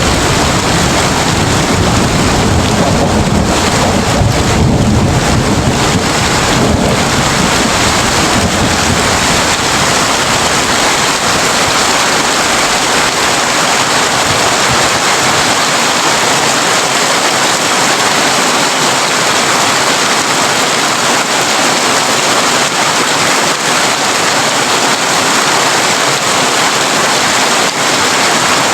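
Heavy rain falling steadily on a tin roof, with a low roll of thunder in the first several seconds that dies away.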